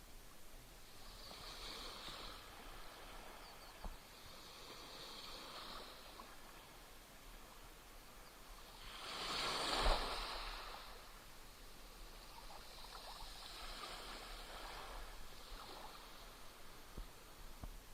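Small Black Sea waves splashing and washing on the shore, in a series of soft swells, with one larger wave breaking and fading about halfway through.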